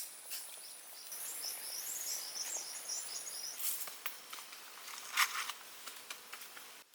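Forest ambience: insects trilling high and steady, a bird twittering for a few seconds, and scattered small clicks and rustles, with one louder brief rustle about five seconds in. The sound cuts off suddenly near the end.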